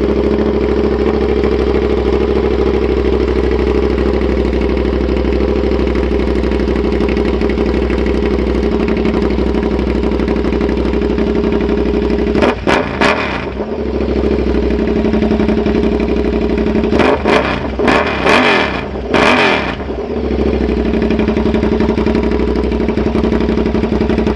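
KTM 1190 R's V-twin engine running through a Bursig slip-on exhaust tip, idling steadily. About halfway it is blipped once, and a few seconds later revved three times in quick succession before settling back to idle.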